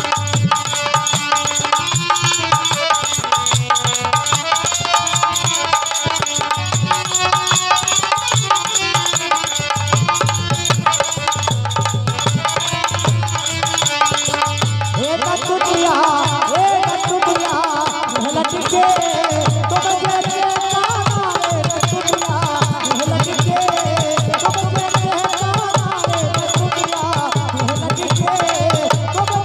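Bundelkhandi Rai folk dance music: a fast, driving hand-drum rhythm under a melody. About halfway through, a sliding, pitched melody line comes in over the drums.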